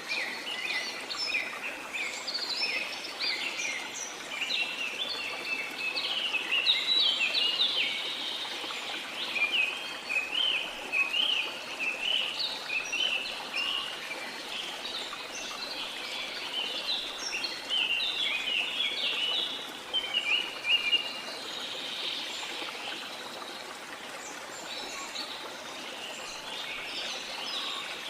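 Many small birds chirping and twittering in a dense chorus over a steady wash of sea noise. The chirping thins out after about twenty seconds.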